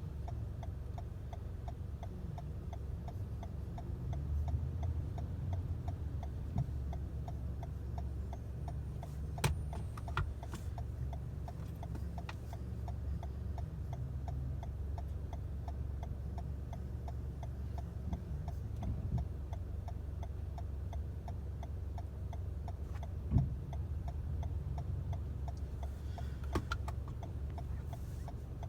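Car's indicator ticking at an even pace over a steady low engine and road rumble inside the car, with a few louder clicks and knocks along the way.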